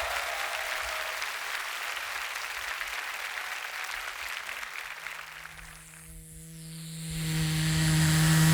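Crowd applause dying away. About five seconds in, a steady low bass drone of beatbox music fades in and swells louder.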